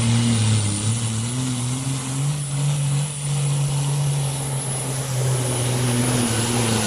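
Supersport pulling truck's diesel engine held at full throttle while dragging the sled, a steady heavy note that climbs slightly about two seconds in and sags near the end, with a thin high whistle above it.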